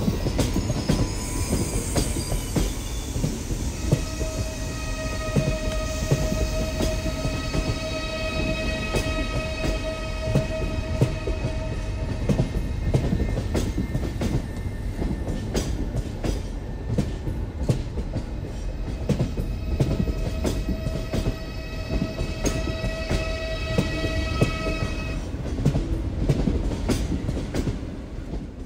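Train hauled by an EMD GL22 diesel locomotive running on the rails: a steady rumble with wheels clicking over rail joints. A long steady pitched tone is held for several seconds twice, about four seconds in and again about twenty seconds in.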